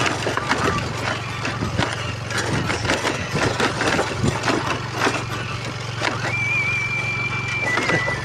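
Motorcycle engine running steadily, with frequent knocks and rattles as the bike goes over a rough road. A high, wavering whistle-like tone comes in about six seconds in.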